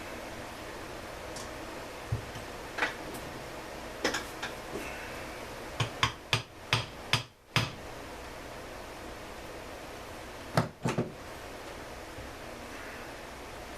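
Tools and chainsaw parts being handled on a workbench: scattered sharp clicks and knocks over a steady hiss. A quick run of about six knocks comes near the middle, and a close pair follows later.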